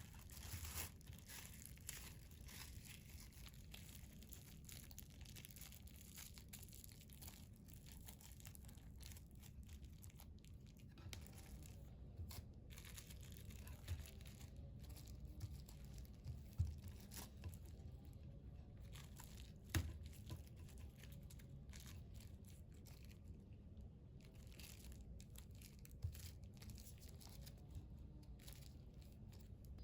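Faint crinkling and rustling of a plastic bag being handled, with scattered light clicks and a few sharper knocks, the loudest about 17 and 20 seconds in.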